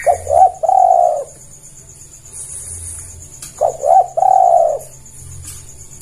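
Spotted dove (tekukur) cooing: two calls, each two short clipped notes followed by a longer drawn-out coo, at the start and again about three and a half seconds in.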